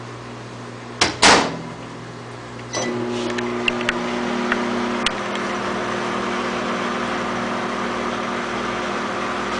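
A loud clunk about a second in. Then, about three seconds in, a microwave oven starts running with a steady hum, broken by a few faint clicks and a short beep.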